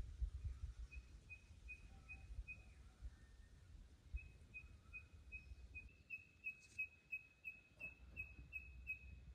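A bird calling: a faint, short whistled note repeated at one high pitch, about three times a second. There is a brief run of notes, then a longer run starting about four seconds in.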